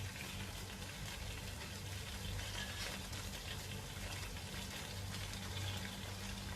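Thick chicken gravy poured into hot oil and browned onions in a steel pan, sizzling and bubbling steadily.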